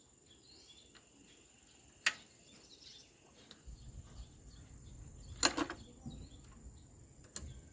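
Three sharp knocks or taps, the middle one loudest, over a steady high insect drone, with a low rumble setting in about halfway through.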